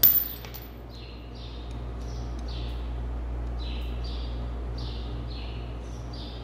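A small bird chirping over and over, short falling chirps about every two-thirds of a second, over a steady low hum. A sharp metallic clink of a hand tool right at the start is the loudest sound.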